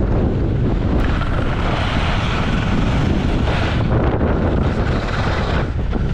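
Loud, steady wind rush buffeting a GoPro's microphone while skiing downhill.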